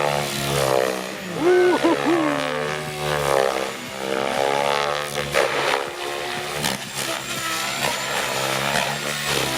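Radio-controlled 3D aerobatic helicopter flying, its rotor and drive tone repeatedly rising and falling in pitch through the manoeuvres, with short sharp whooshes here and there.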